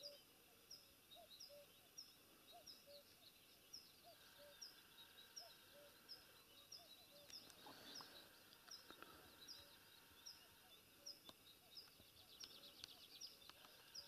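Faint meadow ambience with a bird repeating a short, high, falling call over and over, about three every two seconds.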